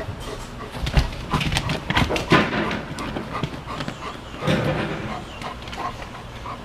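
Black Labrador panting hard during an epileptic seizure episode, with irregular clicks and scuffles as he shifts on the floor, louder swells about one, two and four and a half seconds in.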